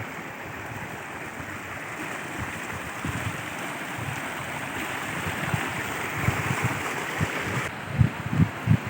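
Steady rush of falling water at a waterfall, an even hiss. Near the end, low gusty rumbles of wind on the microphone join in.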